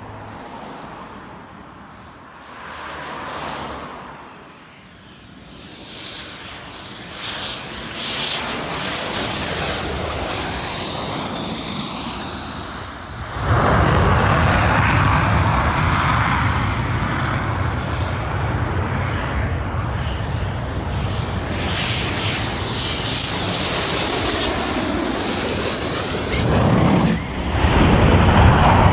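F-15 Eagle fighter jets passing at high power one after another. A high engine whine swells and falls away, then a loud, deep jet rumble comes in suddenly about halfway through. A second high whine rises and fades, and the rumble jumps louder again just before the end.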